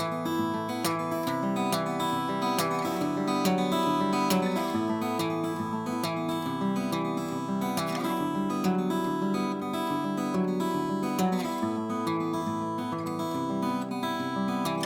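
Acoustic guitar being played, a run of picked notes and strummed chords.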